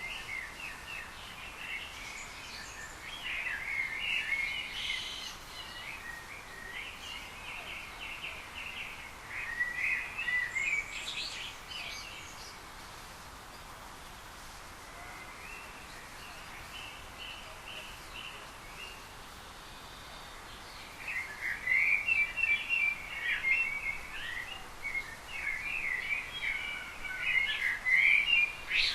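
Small birds chirping and twittering in bouts, with a quieter spell in the middle and a busy run of rapid chirps over the last third.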